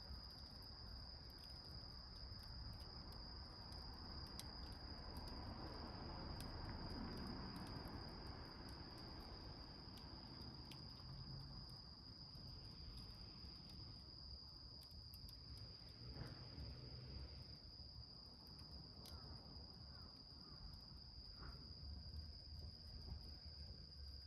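Small wood fire burning in a tin can, with faint scattered crackles, over a steady high-pitched tone.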